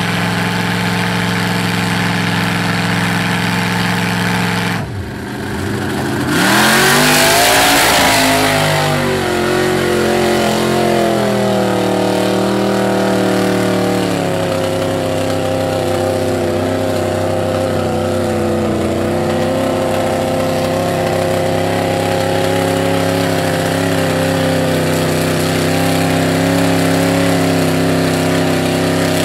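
Mud-bog truck engine running steadily. About five seconds in it dips, then revs up hard with a loud, harsh wash of noise for a few seconds, and settles back into a steady run.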